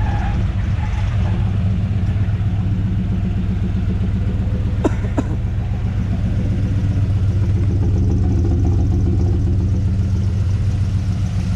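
Vehicle engine running at a steady idle, with two short sharp clicks about five seconds in.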